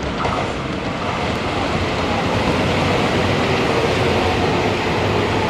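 Nankai 7100 series electric train pulling into the station: a steady rumble of wheels and running gear that grows slightly louder, with a faint whine coming in about halfway through.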